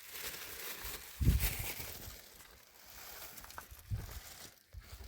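Rustling and handling noise with a few dull thumps, the loudest about a second in.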